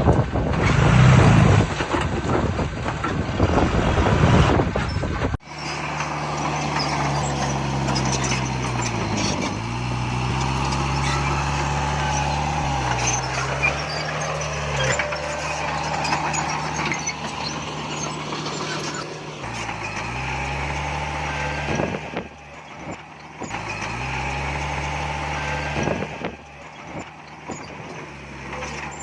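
Wind buffeting the microphone for about the first five seconds, then cut off abruptly. After that comes the heavy diesel engine of earthmoving equipment (bulldozer or dump truck) running under load, its revs dipping and recovering several times.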